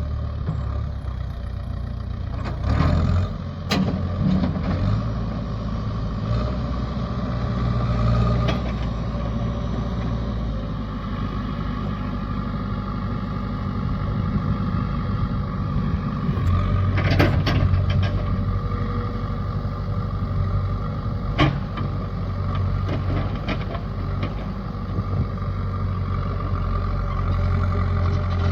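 A heavy vehicle's engine running steadily, with a few sharp knocks or clanks about 3, 4, 17 and 21 seconds in.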